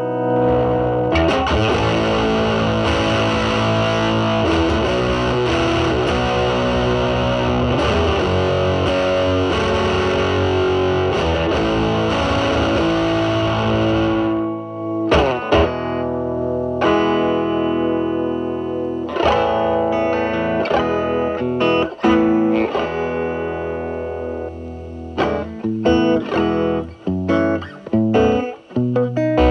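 Electric guitar (a Telecaster) played through a silicon-transistor Mosrite Fuzzrite clone fuzz pedal into a Marshall Valvestate amp, giving a fuzzy, distorted tone. The first half is dense, sustained fuzzy chords and notes. From about halfway through the playing turns choppier, with short separated notes and brief gaps between them.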